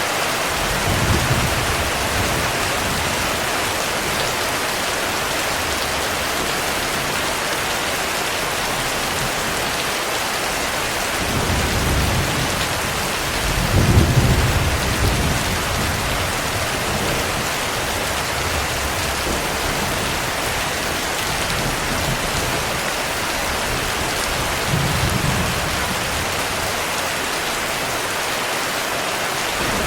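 Heavy, steady rain with thunder rolling through it: a short rumble about a second in, a longer, louder roll building and peaking in the middle, and a weaker rumble a few seconds before the end.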